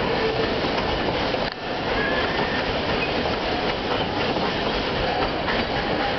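Wooden carriages of the Puffing Billy narrow-gauge steam train rolling past, wheels clattering steadily on the rails, with a brief dip in the noise about one and a half seconds in.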